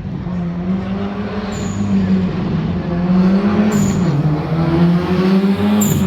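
Rally car engine running hard at high revs, its pitch rising and dipping with throttle and gear changes, getting louder through the clip. Three brief high-pitched bursts come about 1.5, 4 and 6 seconds in.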